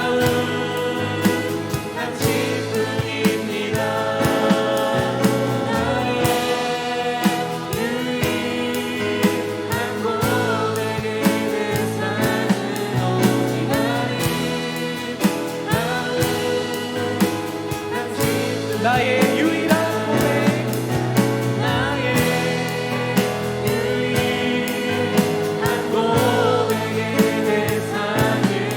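Christian worship song: singing over instrumental accompaniment.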